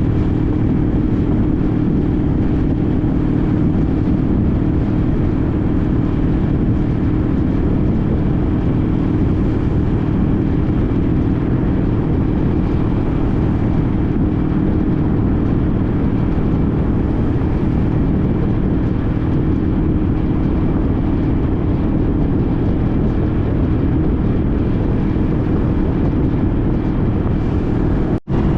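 Honda CTX1300 motorcycle's V4 engine running steadily under way, a constant droning hum with heavy low rumble, briefly cut off for an instant near the end.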